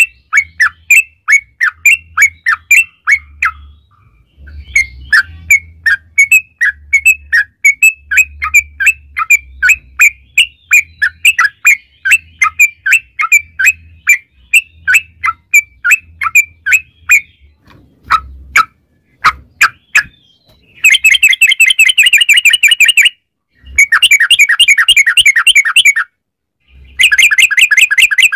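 Yellow-vented bulbul (trucukan) singing: a quick, bubbly run of short falling notes, then, after a few scattered notes, long dense rapid trills in bursts of two to three seconds, the 'ropel panjang' rolling song. This is a lure recording meant to get other trucukan birds singing.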